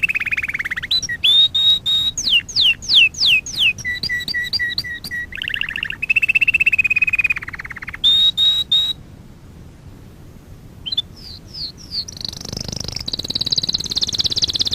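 Domestic canary singing in a series of phrases: a rapid rolling trill, a run of quick downward-sweeping whistles, repeated short chirps and another rolling trill. Then comes a pause of about two seconds and a high, fast trill near the end.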